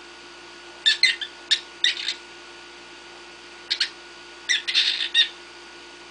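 Pet cockatiel giving short, sharp chirps in three quick clusters, about a second in, near the middle and again just past halfway.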